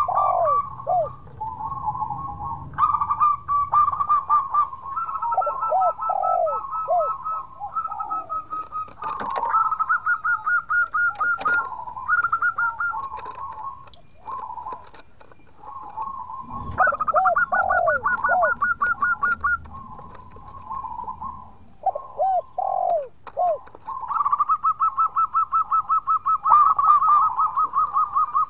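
Zebra dove (perkutut) cooing: runs of rapid, evenly repeated trilled coos around one pitch, mixed with groups of short lower notes that fall in pitch, going on almost without a break.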